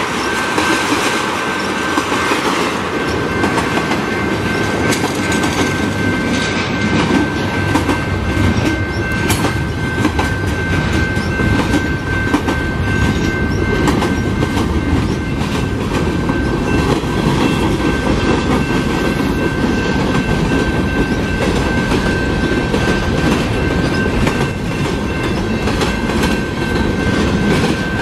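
Canadian Pacific freight train of tank cars and empty centerbeam flatcars rolling steadily past a level crossing: a loud, continuous rumble with wheels clicking over the rail joints. Through it runs a steady high ringing tone from the crossing's warning bell.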